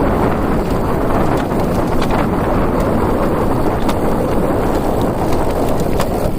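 Steady wind buffeting the microphone, with a few faint clicks.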